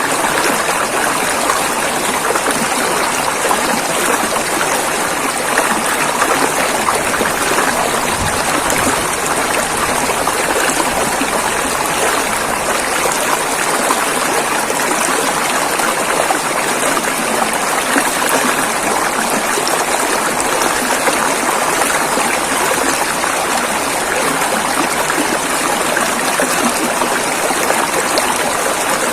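Fast-flowing river water rushing over rocks, a steady, even splashing that does not change.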